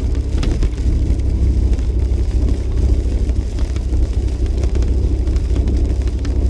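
A Jeep driving: a steady low rumble of engine and road noise, with a few faint ticks over it.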